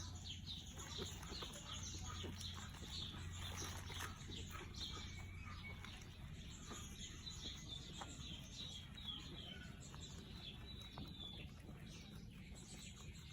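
Small birds chirping over and over, with a few faint clicks and a low steady hum underneath.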